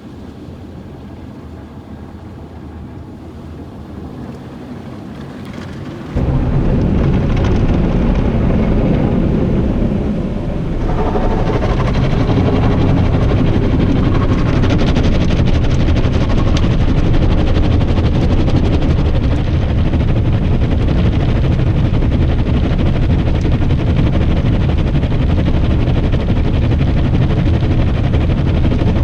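Automatic car wash brush cycle heard from inside the car: a low rumble, then about six seconds in a sudden, loud, steady scrubbing and spraying noise as the brushes work over the car.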